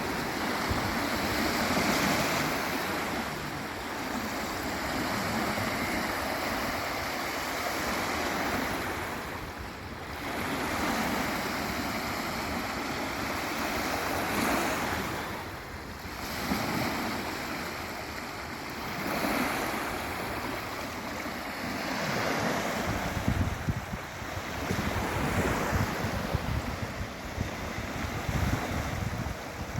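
Sea waves breaking and washing on a beach, the surf swelling and fading every few seconds. In the last several seconds, wind buffets the microphone.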